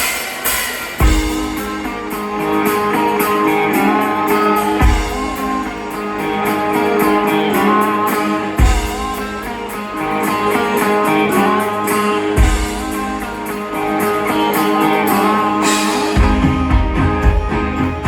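Live rock band playing the instrumental intro of a song: guitar over sustained chords, with a heavy low hit about every four seconds. A steady drum beat comes in near the end.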